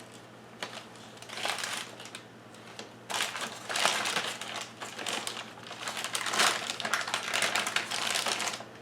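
A bag crinkling as it is handled and opened: a short rustle about a second and a half in, then nearly continuous crinkling from about three seconds in until just before the end.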